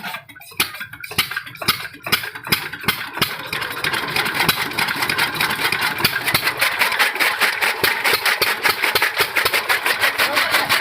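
A 12 hp diesel engine being started. For about three seconds there are a few slow, uneven strokes, then it catches and settles into a fast, even running beat.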